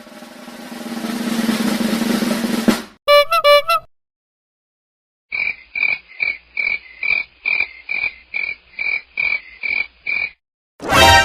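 A run of comedy sound effects: a snare drum roll swelling for about three seconds, three quick pitched notes, then a frog croaking about a dozen times in a steady rhythm of two or three croaks a second, and a sudden loud pitched sound near the end.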